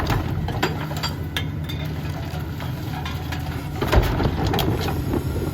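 Diesel engine of a Mack MRU rear-loader garbage truck idling steadily, with a few sharp knocks, the clearest about a second and a half in and about four seconds in.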